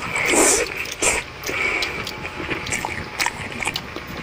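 A person biting and chewing mango slices close to the microphone: many short wet clicks and smacks of the mouth, with a brief vocal sound near the start.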